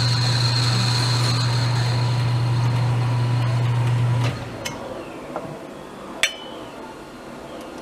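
Metal lathe running with a steady hum and a high whine, switched off about four seconds in. A few light metallic clinks follow, the loudest one near the end.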